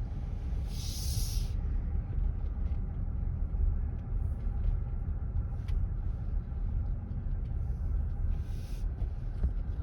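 Car cabin noise while driving slowly: a steady low engine and road rumble, with two short hisses, one about a second in and one near the end.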